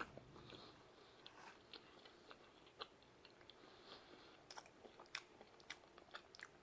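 Faint chewing of pizza: soft, scattered mouth clicks and smacks, coming more often in the second half.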